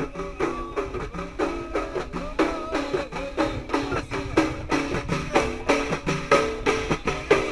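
Ahidous music: a chorus chanting in unison over a steady beat of bendir frame drums.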